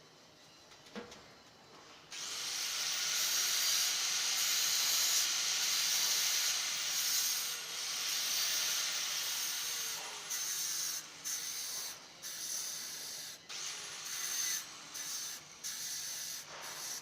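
A loud hissing spray that starts about two seconds in and runs steadily for several seconds, then comes in short bursts with brief gaps.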